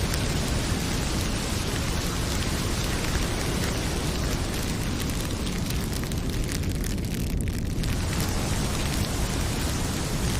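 Heavy rain pouring steadily, with a wood fire crackling in small sharp clicks on top. The higher hiss thins out briefly about two-thirds of the way through.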